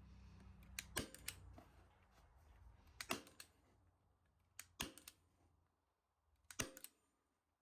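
A manual Arrow staple gun firing staples into upholstery fabric on a chair frame: about four sharp clicks, one every second and a half to two seconds, each with a smaller click beside it.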